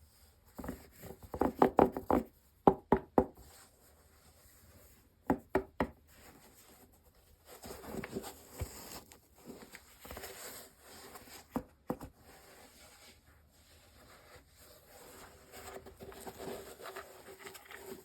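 Unboxing handling sounds: a quick run of knocks and taps, a second short run a few seconds later, then softer rubbing and shuffling of the packaging with one or two single knocks.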